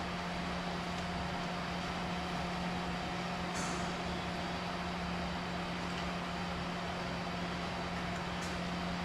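Steady background drone with a constant low hum, like a fan or motor running, with a faint click about three and a half seconds in and another near the end.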